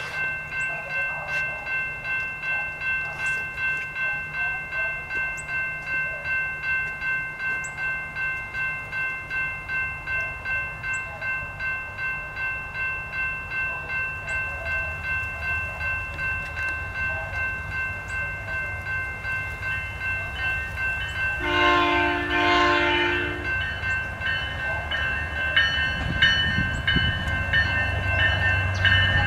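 Railroad crossing bell ringing steadily. About three-quarters of the way through, a locomotive sounds a two-second blast on its multi-chime horn, and near the end the low rumble of the approaching train builds.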